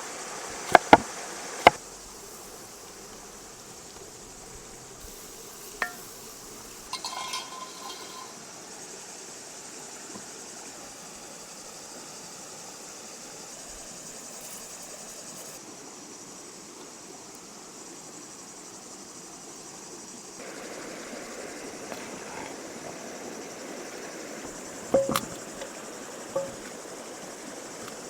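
Outdoor background of steady insect buzzing, with three sharp knife-chopping knocks on a board at the start and a few light clinks of cooking utensils in the middle and near the end.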